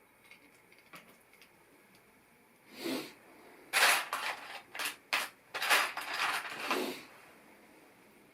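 LEGO pieces being handled: a few light clicks, then from about three seconds in a run of loud rustling and clattering bursts that stop about seven seconds in.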